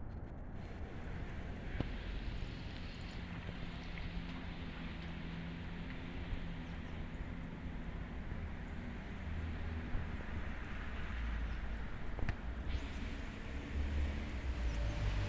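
Road traffic on a wet road in a snowstorm: a steady hiss of tyres and engine hum, with wind, and a low rumble building near the end.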